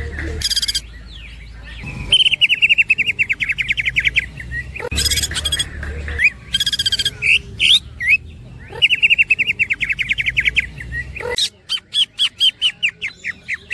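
Cucak ijo (greater green leafbird) singing: two long, fast, woodpecker-like rattling trills of repeated notes, with loud harsh calls between them, and a slower run of spaced chirps near the end.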